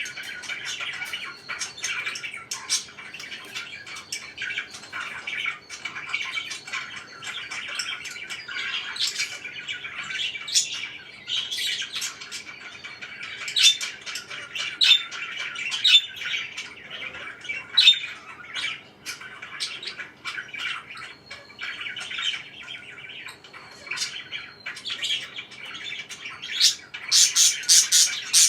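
Pet parakeets chattering continuously, with sharper, louder squawks now and then and a quick run of loud repeated squawks near the end.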